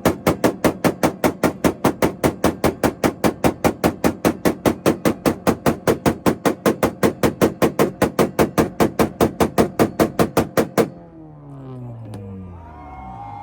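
Acura Integra engine held on a two-step launch limiter, cracking out a rapid, even string of sharp pops about five a second. About eleven seconds in it cuts off suddenly and the revs fall away.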